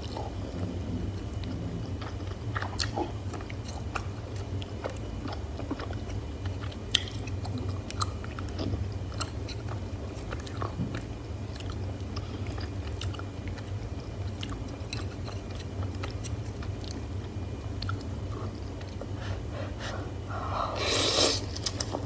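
Close-miked chewing and biting of food, with many small wet mouth clicks over a steady low hum. A louder, noisier burst comes near the end.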